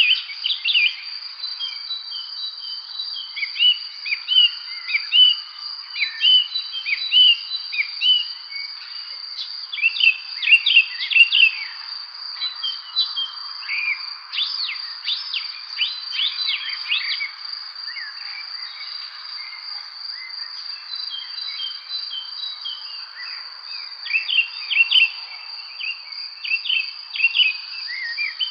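Songbirds chirping in busy clusters of short, quick, falling notes over a steady high-pitched drone, as in an evening spring chorus.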